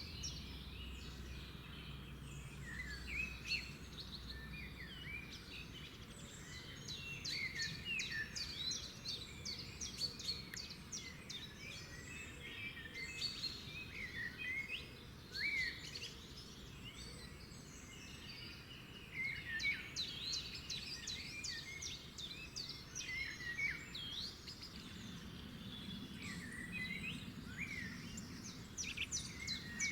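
Several small birds chirping and twittering at once, many quick high chirps and short sliding whistles overlapping, over a faint steady background hiss.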